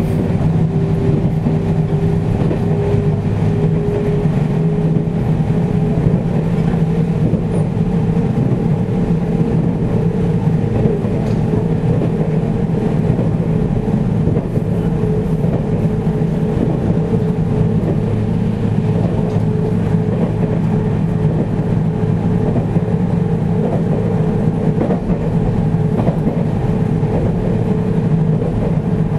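Interior running sound of a JR Central 313 series 8000-subseries electric train, heard inside the car at the car end: a steady rumble of wheels on rail with a low hum. A thin humming tone rises slightly in pitch over the first few seconds, then holds steady.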